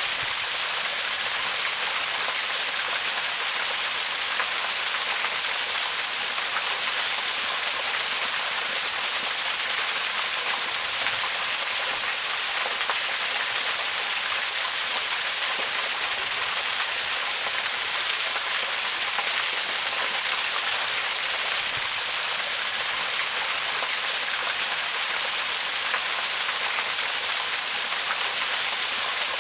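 Waterfall: a steady, even rush of falling water, mostly a bright hiss with little low rumble.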